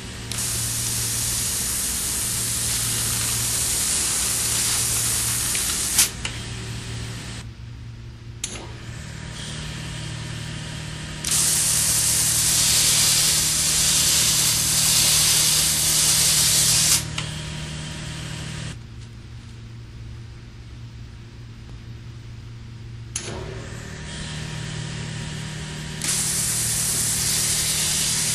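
ESAB VapoJet high-pressure water-vapour jet hissing as it cuts duct insulation liner. The jet starts and stops several times and its loudness steps up and down, loudest about halfway through and again near the end, with a sharp click about 6 s in. A steady low hum runs underneath.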